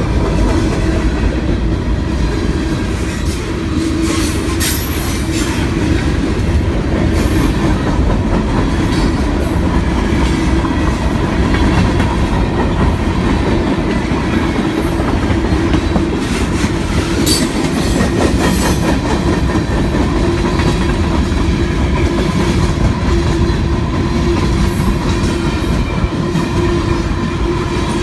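Freight cars of a mixed freight train rolling past, their wheels clacking over the rail joints in a steady rumble, with a steady metallic ringing tone over it.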